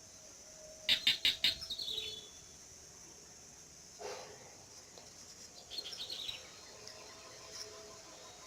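A bird calling in two bursts of rapid, high chirps with short falling notes, one about a second in and another around six seconds, over a steady high-pitched background hiss.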